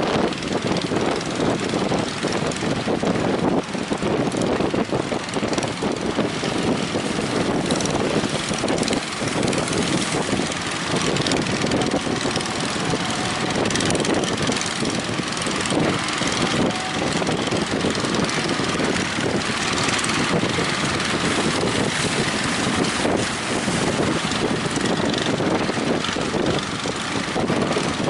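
Strong wind buffeting the microphone, with surf breaking behind it: a steady, ragged rush with no let-up.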